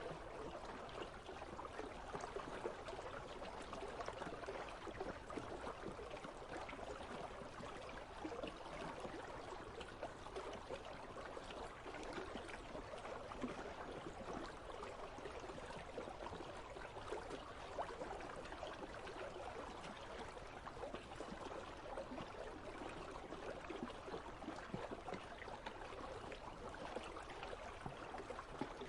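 River water flowing steadily, a continuous babbling with many small splashes and trickles.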